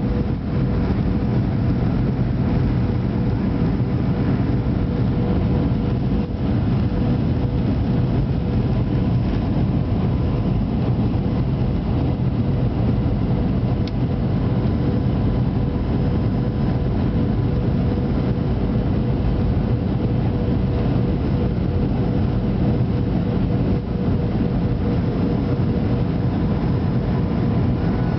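Steady airliner cabin noise heard from a passenger seat: a low rumble of jet engines and rushing air with a constant hum running through it.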